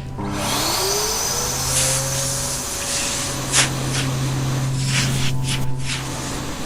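Vacuum cleaner switched on: its motor whine rises in pitch as it spins up over about two seconds, then runs steadily with a hiss of rushing air. A few sharp ticks come through along the way.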